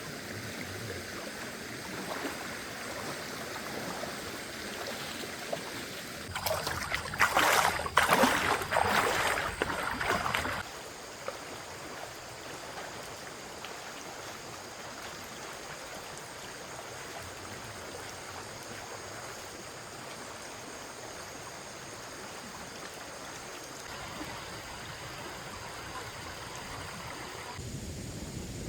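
A stream running steadily. About six seconds in comes a loud, rough, irregular stretch of noise that lasts about four seconds.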